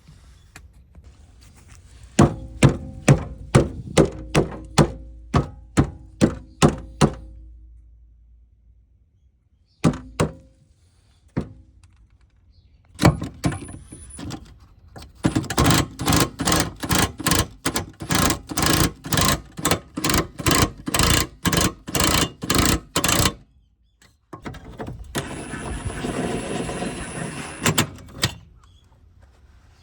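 Runs of repeated sharp knocks, about two a second, with a few seconds of steady hiss near the end.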